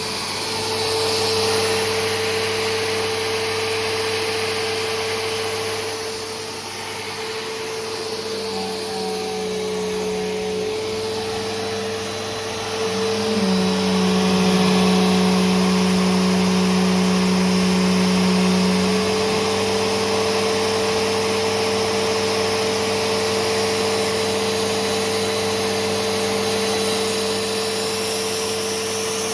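Bissell Powerforce Helix Turbo upright vacuum, fitted with a new belt and brushroll, running continuously while vacuuming, with a steady motor whine. It gets louder for several seconds around the middle, then settles back.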